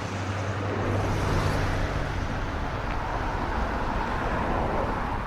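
Steady city-street traffic noise: a continuous hum and hiss of passing road vehicles.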